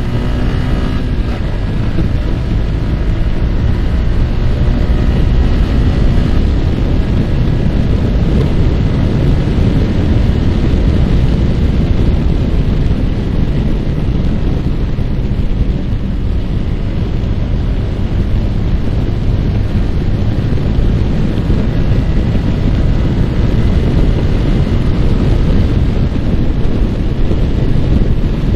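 Wind buffeting the microphone at riding speed over a Yamaha R15's single-cylinder engine. The engine note is clearest in the first second or two, shifting in pitch, then the steady low wind rush covers most of it.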